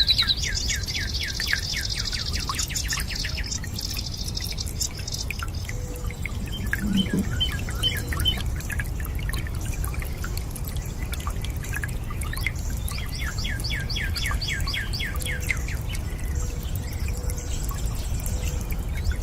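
Water dripping and trickling, with many small drops, over a steady low wash. Songbirds sing in the background, with rapid trills at the start and again about two-thirds of the way through.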